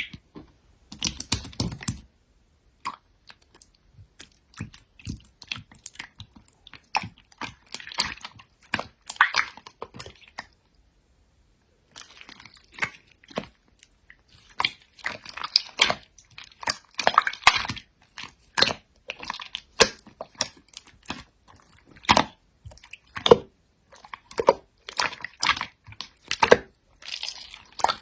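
Slime being squeezed and poked by hand, giving a stream of irregular sticky pops and clicks, with a short pause about ten seconds in.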